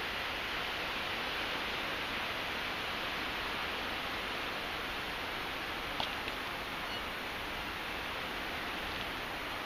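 Steady rushing wind and road noise at a helmet-mounted camera on a moving motorbike, with a couple of faint clicks about six seconds in.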